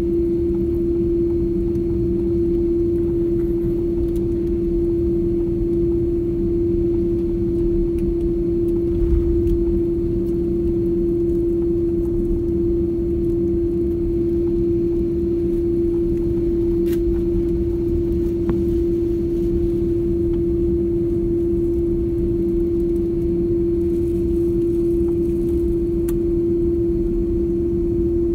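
Jet airliner cabin noise in flight: a steady engine and airflow rumble with a constant, even hum over it.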